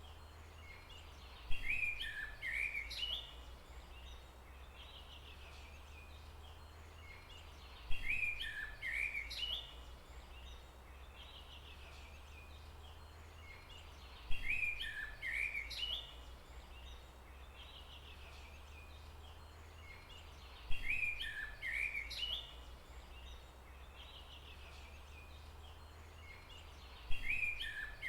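A bird's short chirping call phrase, sounding the same each time and repeating about every six seconds, five times, over a steady low hum.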